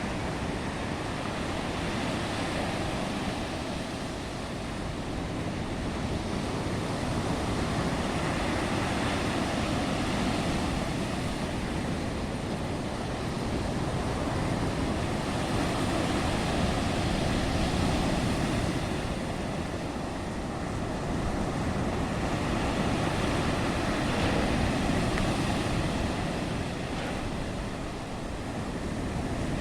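Black Sea storm waves breaking on the shore: a continuous rushing surf that swells and eases every several seconds, with wind buffeting the microphone.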